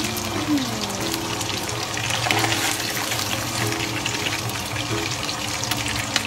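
Pork chops frying in hot vegetable oil, a steady sizzle with fine crackles. Soft background music plays underneath.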